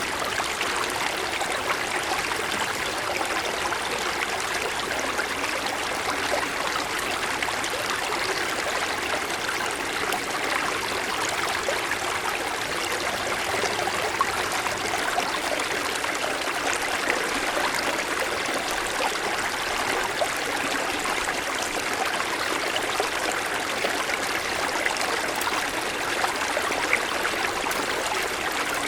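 A mountain stream running and babbling over snow-covered stones, a steady rush of flowing water with fine splashing detail.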